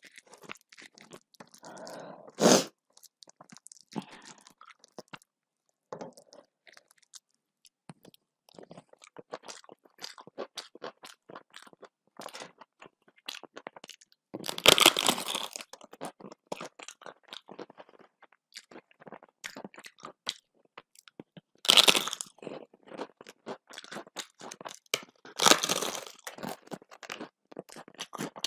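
Close-up eating sounds: crisp papad crunching as it is bitten and chewed, with four loud crunches and many small crackles between them.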